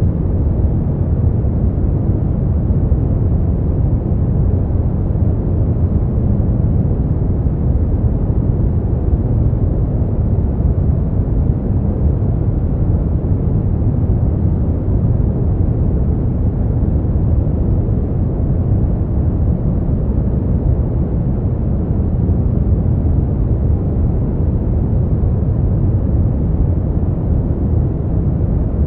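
A steady, unchanging noise track played for sleep: an even, deep rushing hiss that is dull and muffled, with its weight in the low end and almost no treble.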